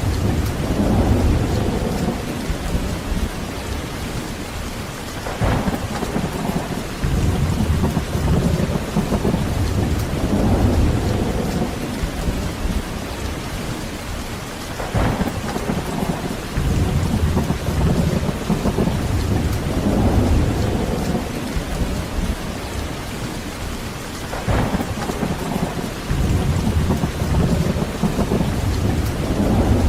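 Heavy steady rain with low rolling thunder, the rumbles swelling and fading about every five seconds, with an occasional sharp crackle.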